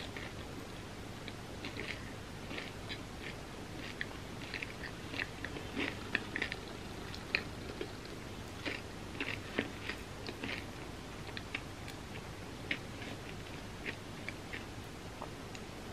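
Chewing a homemade vegan picnic bar of puffed rice, peanuts and chocolate: irregular soft crunches and crackles spread through the whole stretch, some a little louder than the rest.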